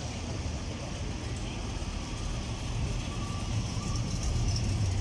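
A motor vehicle running, a low steady rumble that slowly grows louder toward the end.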